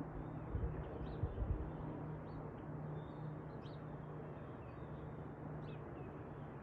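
Short, faint, high bird calls over a steady rushing background with a low hum, and a few low thumps in the first second and a half.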